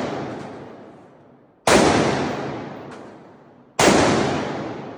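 Two gunshots about two seconds apart, each a sharp crack that trails off in a long, reverberant echo, with the tail of an earlier shot still dying away at the start.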